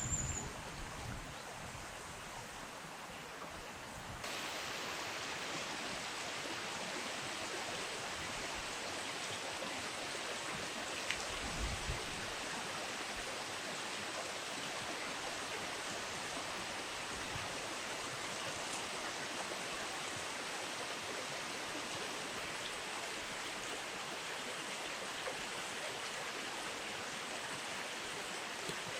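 Steady rushing wash of flowing river water, getting louder about four seconds in, with a short low thud about eleven seconds in.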